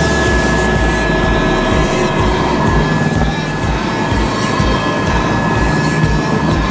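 Helicopter in flight: the rotor beats in a fast, even rhythm under a steady high turbine whine.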